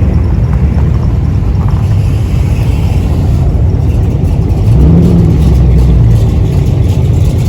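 Car engine running close by, its pitch and level rising briefly about five seconds in, as in a light rev.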